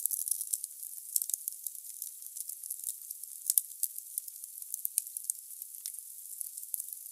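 Wood fire burning in a fireplace: a dense run of small crackles and snaps from the logs over a faint hiss, with a sharper pop about three and a half seconds in.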